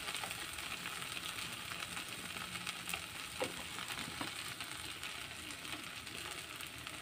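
Ground spice paste frying in oil in a metal kadai: a soft, steady sizzle, with a couple of faint ticks a little past the middle.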